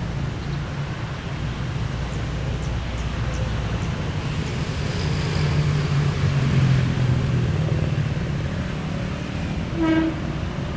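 A passenger train running with a steady low diesel locomotive rumble that swells around the middle, and a single short horn toot near the end.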